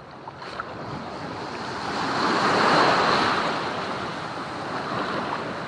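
Ocean surf washing in: a wave swells up and breaks about halfway through, then hisses away, with a smaller wash near the end.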